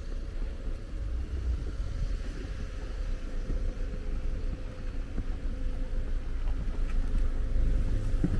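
Low, steady rumble of street traffic with a steady engine-like hum, growing a little louder near the end.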